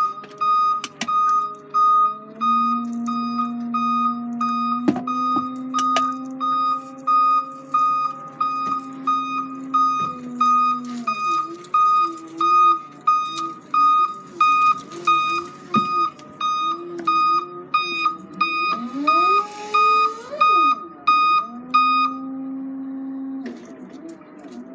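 Vehicle reversing alarm beeping steadily about once a second over a running engine, which revs up briefly near the end; the beeping stops shortly before the end.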